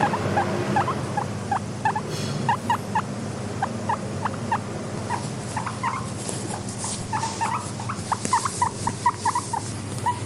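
Guinea pigs squeaking: short, rising squeaks, a few each second, over a low steady hum.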